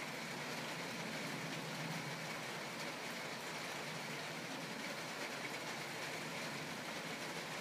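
Steady background hiss with a faint low hum; no distinct sounds stand out.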